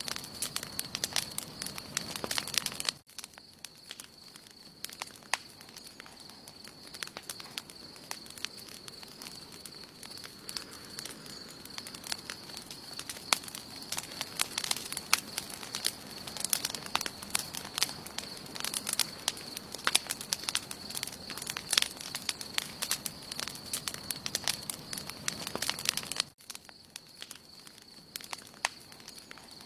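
Wood campfire burning, crackling with many sharp pops at an uneven rate. A steady thin high-pitched tone runs underneath, and the crackling drops abruptly in level about three seconds in and again near the end.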